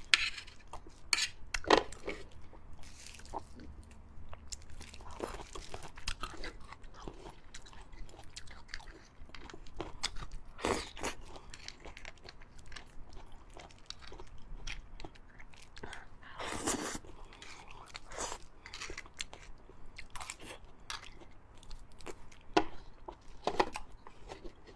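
A person chewing and biting fatty beef bone marrow on a close microphone: irregular wet mouth clicks and smacks, with a few louder bites scattered through.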